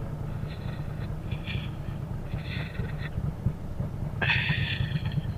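Harley-Davidson V-twin motorcycle engine running at low revs, a steady, fast-pulsing low rumble. Short higher-pitched sounds come and go above it, the strongest about four seconds in.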